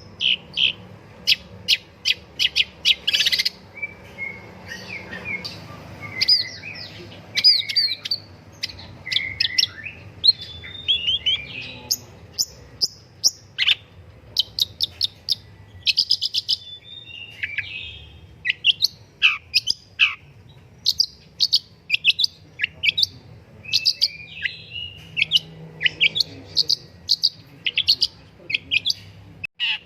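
Long-tailed shrike (pentet or cendet) singing a fast, varied song of sharp chirps, short trills and harsher notes, with brief pauses between phrases.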